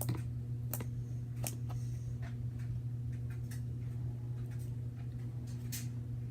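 Wet, sticky homemade slime being handled, giving irregular small clicks and pops, over a steady low hum.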